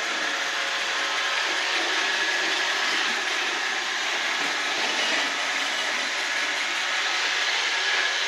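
iRobot Roomba 770 robot vacuum running, its suction motor and brushes giving a steady whirring hiss with a faint high whine.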